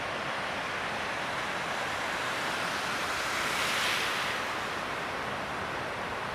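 Ocean surf breaking on the reef, a steady wash of waves with one wave swelling louder about three and a half seconds in before easing back.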